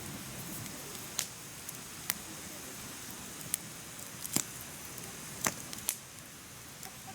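Firewood burning in a mesh fire pit: a soft steady hiss of flame with about six sharp crackles and pops scattered through, the loudest about four and five and a half seconds in.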